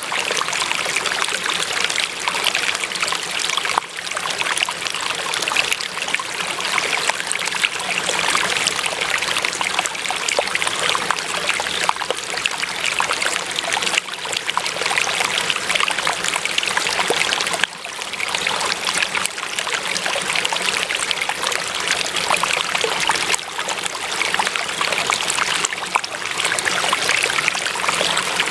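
Running water flowing and trickling steadily, as of a stream.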